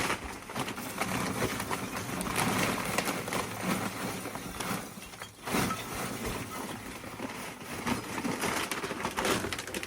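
Charcoal being poured from a bag into a metal mangal grill: a continuous clatter of pieces tumbling and knocking together, with many small clicks and a short lull a little past halfway.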